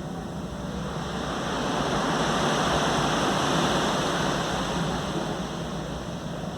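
Ocean wave breaking and washing ashore: a rushing noise that swells to a peak mid-way and then fades away.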